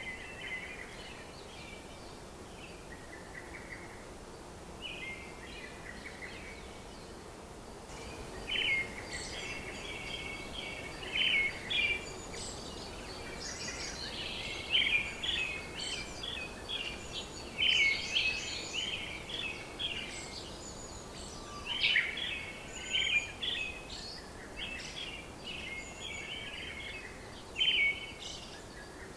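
Birds chirping in short repeated calls, sparse at first and much busier from about eight seconds in, over a faint steady background hiss.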